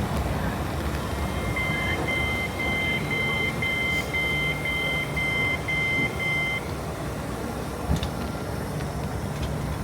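Train door warning beeps: a string of about ten short, high beeps, roughly two a second, lasting about five seconds, over the steady low hum of a train standing at the platform.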